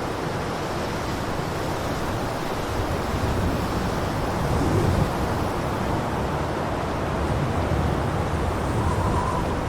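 Blizzard wind blowing steadily, a dense rushing noise with a heavy low rumble that swells slightly now and then.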